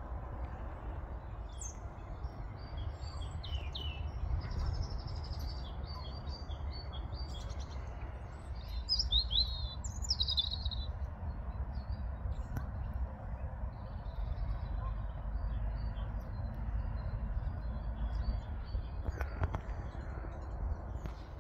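Small birds chirping and singing short phrases, busiest in the first half, over a steady low rumble. A couple of knocks near the end.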